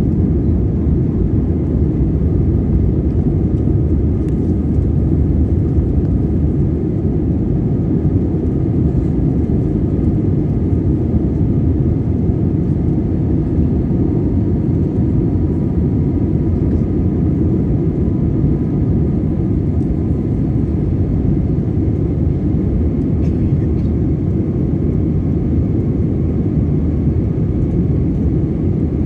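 Steady cabin noise of an Airbus A320 in flight, heard from inside the cabin: a constant low rumble of engines and airflow, with faint steady whining tones above it.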